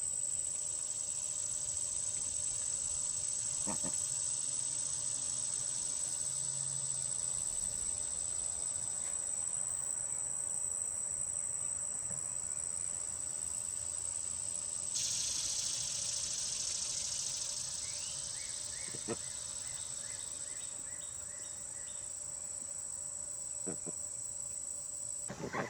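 Insects trilling in a steady, high, continuous drone, typical of summer crickets. About halfway through, a second, broader buzzing joins, and a short run of quick repeated chirps follows a few seconds later.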